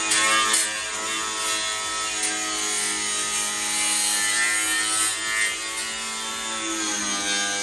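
Power tool spinning a 100mm abrasive stripping disc against the steel of a truck bed panel: a steady motor whine over gritty rubbing, the pitch wavering and dropping slightly near the end.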